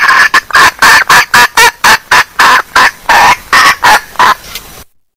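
Female junglefowl hen giving a rapid series of short, loud clucks, about three a second, used as a lure call to draw wild junglefowl. The series cuts off suddenly near the end.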